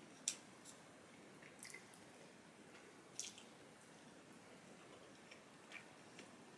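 Near silence broken by a few faint wet clicks of chewing and mouth noise while eating. The sharpest comes just after the start and another about three seconds in.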